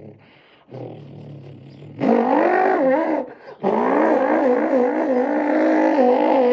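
A man's mouth imitating a Chevrolet Corvette C6 ZR1's engine: a low growl, then loud revving whose pitch rises and falls repeatedly, broken by a short gap about three seconds in.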